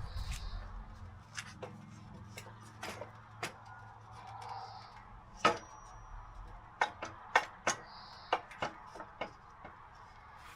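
Quiet, irregular taps and clicks of hand work with wood and tools, sparse at first, then a run of sharper knocks through the second half.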